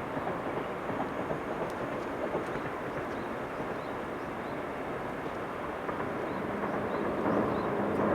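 A train running along the track: a steady rumble of wheels on rail that grows a little louder near the end.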